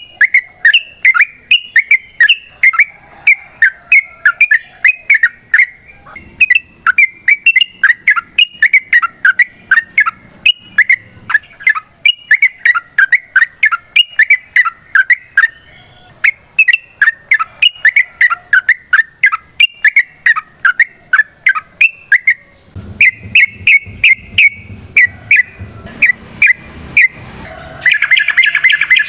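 Yellow-vented bulbul (trucuk) singing a long rapid-fire string of short chirping notes, several a second, with only brief breaks. A low background rumble joins in the last few seconds.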